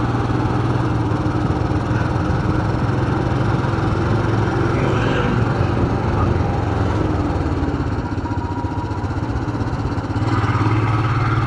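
Motorcycle engine running steadily under way, heard from the rider's own bike. The engine note eases off slightly about eight seconds in and picks up again about two seconds later.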